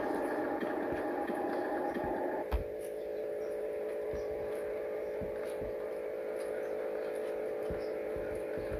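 Remote-control toy truck's electric drive running with a steady whine. There is a knock about two and a half seconds in, after which the whine settles into a steadier, slightly lower hum.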